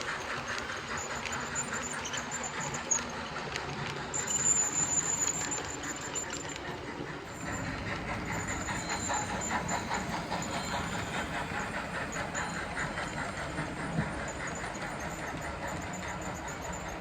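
Model Pennsylvania Railroad K4 steam locomotive and passenger cars running on track, wheels clicking rhythmically, with a high squeak from the wheels coming and going.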